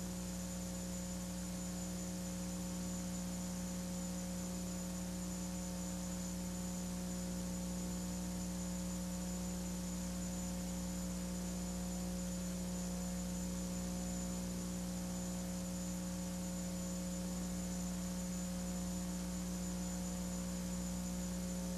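Steady electrical mains hum with a buzzy stack of higher overtones over a faint even hiss, unchanging throughout.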